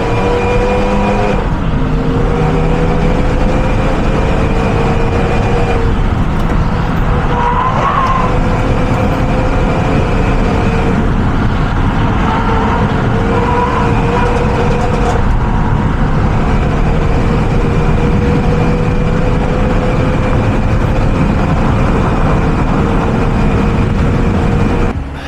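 Onboard sound of a Renault Mégane RS's turbocharged four-cylinder engine pulling hard, its pitch climbing through each gear and dropping back at upshifts, about four times, with road and wind noise under it.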